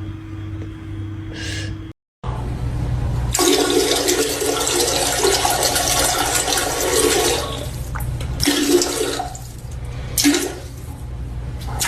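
Water rushing for about four seconds, starting a little over three seconds in, with a few short pitched sounds near the end.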